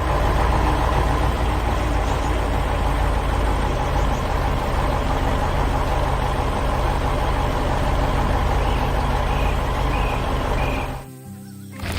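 Heavy construction-vehicle engine running steadily at idle, cutting off sharply about eleven seconds in.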